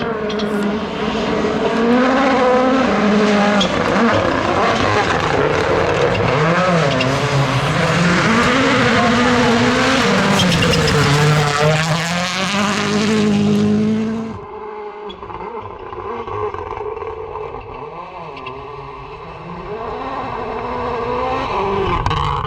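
Rally car engine at full throttle, its revs rising and falling through gear changes. It drops off suddenly about fourteen seconds in, and the engine goes on fainter, swelling again near the end.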